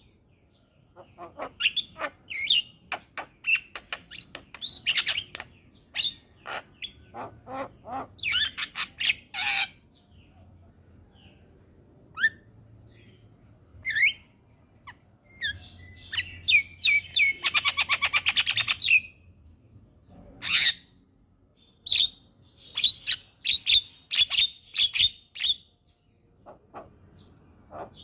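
Javan myna (jalak kebo) singing a varied, chattering song of sharp clicks, harsh calls and short whistles in quick phrases with short pauses, with a fast rattling burst of about two seconds midway.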